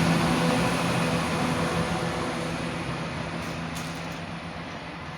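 Diesel passenger train pulling away, its engine hum and rail rumble fading steadily as it recedes.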